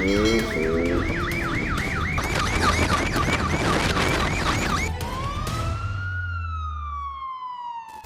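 Police siren in a fast yelp, three to four sweeps a second, over a low rumble. About five seconds in the yelp stops, and a single tone rises and then slowly falls as the siren winds down.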